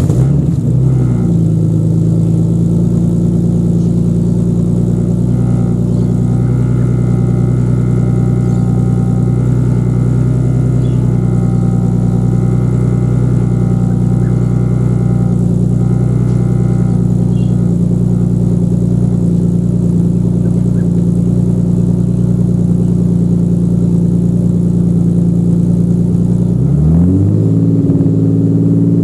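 Ford XR6 Turbo's turbocharged inline-six (a transplanted FG F6 engine) catching on start-up, flaring briefly and settling into a steady idle through a 3-inch exhaust with a 100-cell cat and muffler that dumps at the differential. Near the end it is revved up.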